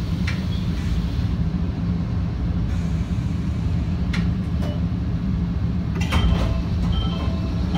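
Electric train standing at a platform, its onboard equipment giving a steady low hum, with a few clicks and, near the end, a cluster of clicks and short faint high tones.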